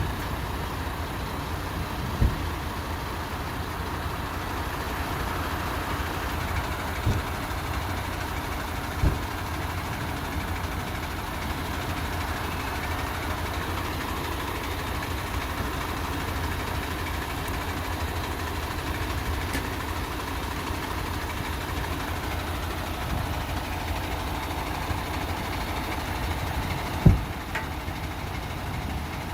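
Semi-truck tractor unit's engine idling steadily, with a few sharp knocks or clunks at intervals, the loudest one near the end.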